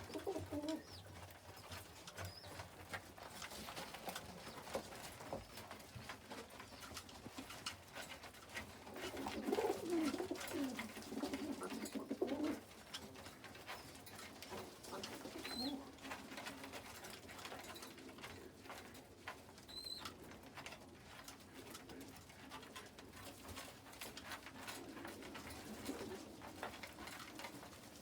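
Domestic pigeons cooing, with the loudest run of cooing about nine to twelve seconds in, over scattered light taps and clicks.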